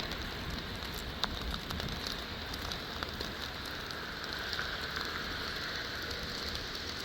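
Steady hiss of water with scattered sharp ticks and drips.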